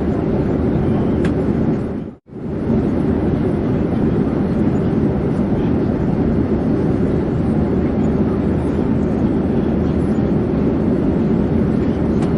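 Steady, low airplane engine noise from a plane in flight. It cuts out for a split second about two seconds in, then resumes unchanged.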